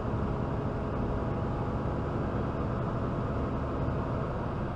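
Steady road and engine noise inside the cab of a moving truck.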